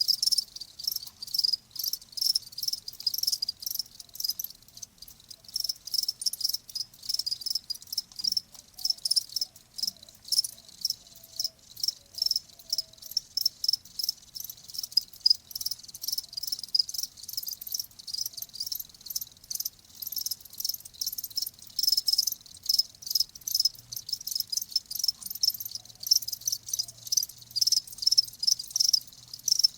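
Crickets chirping: many short, high-pitched chirps repeating in a dense, continuous chorus.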